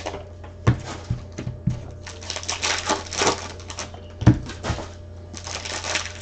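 Trading cards being handled: cards and pack wrappers sliding and rustling against each other, with a few taps and knocks on the table.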